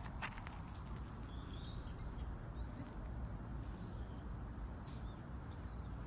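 Songbirds giving short chirps and calls several times, over a steady low rumble. A single footstep sounds just at the start.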